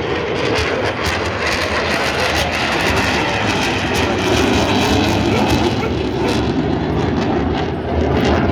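Eurofighter Typhoon's two EJ200 jet engines heard during a display flight: loud, continuous jet noise without a break.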